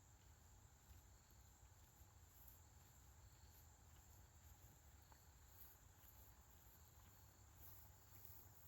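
Near silence: faint, high-pitched insect chirping, with short chirps repeating irregularly.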